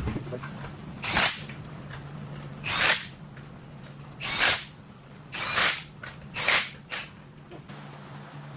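Six short hissing bursts, each under half a second, the last two close together, over a steady low hum.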